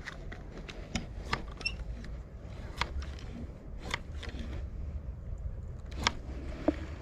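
A few sharp, light clicks and knocks scattered over a low steady rumble; no grinder is running.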